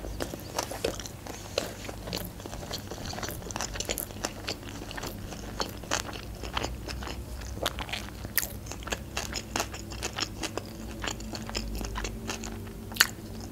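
A mouthful of sushi roll being chewed: a steady run of small, crisp, wet clicks and crunches from the mouth, with one sharper click near the end.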